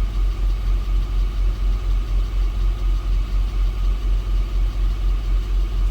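A 6.6-litre Duramax diesel V8 idling steadily, with an even low pulsing throb.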